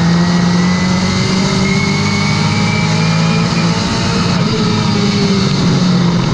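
Late model race car's V8 engine running hard at speed on the track. The engine note sags slightly a little past halfway, then climbs again.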